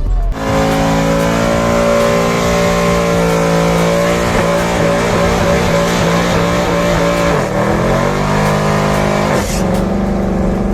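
A car engine revved and held at high revs with a steady high note, starting suddenly; about seven and a half seconds in the revs drop and climb back, and they change again near the end.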